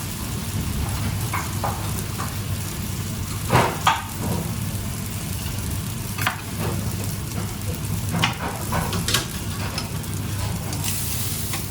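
Food sizzling as it fries in a pan, with a utensil stirring it and several short clatters against the pan.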